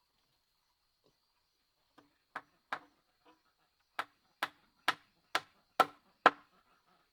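Chopping: about ten sharp strikes of a blade. They start irregularly and settle into an even run of about two a second, each louder than the last.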